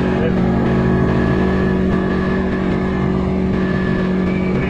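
CFMoto ATV engine running at a steady pitch under way, with low rumble from the ride.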